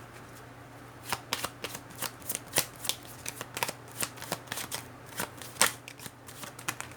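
Tarot cards being shuffled: a run of irregular, crisp card clicks and slaps starting about a second in and stopping shortly before the end.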